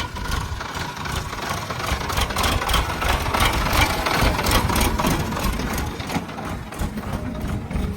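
Diesel engine of heavy earthmoving machinery running, with a clattering, grinding working noise that swells in the middle and eases off near the end.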